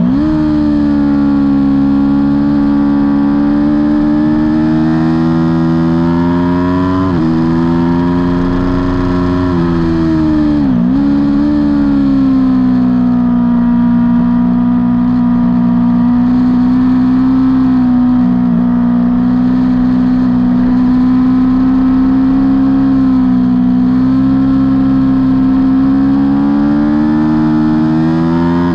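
Aprilia Tuono V4 motorcycle's V4 engine running hard at racing revs. The pitch plunges and climbs back twice, at the very start and about 11 seconds in, with a shift step around 7 seconds in. Through the second half it holds high and nearly steady.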